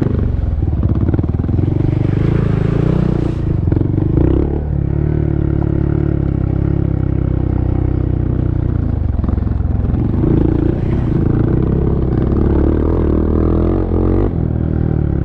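Honda Monkey's single-cylinder engine running on a rough, slick dirt trail, its pitch rising and falling as the throttle is worked.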